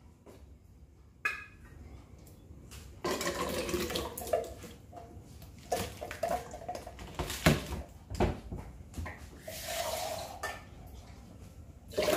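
Tinned red kidney beans and their liquid sloshing and plopping out of the can into a stainless-steel pot of coconut milk, with a few sharp knocks of the tin against the pot, the loudest near the end.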